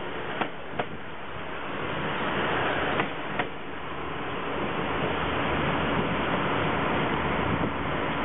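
Diesel multiple-unit commuter train pulling out. Its wheels click in pairs over a rail joint, twice in the first few seconds, and then a steady rumble of underfloor engines and wheels grows louder and holds as the train draws away.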